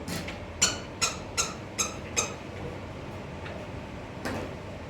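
Five sharp, ringing knocks in an even rhythm, about two and a half a second, then one weaker knock near the end.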